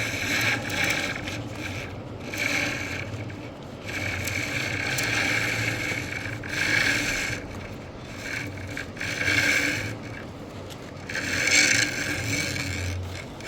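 Repeated scraping strokes of a hand tool, about a dozen irregularly spaced scrapes each lasting half a second to a couple of seconds, with the loudest one near the end.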